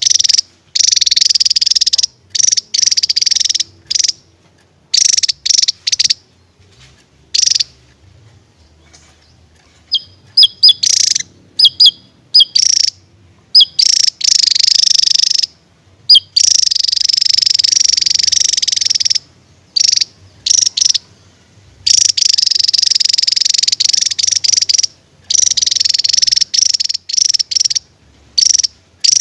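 Javan tesia singing: loud, high-pitched phrases in bursts, some short and clipped, others long continuous trills lasting a few seconds, with brief pauses between them.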